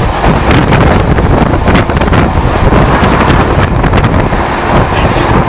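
Heavy wind buffeting the microphone at the open door of a fast-moving Siemens 15-coach EMU suburban train, over the steady rumble of its wheels on the rails.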